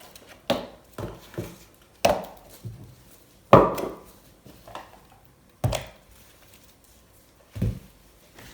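A series of about nine sharp knocks, irregularly spaced, each with a short ringing tail; the loudest comes about three and a half seconds in.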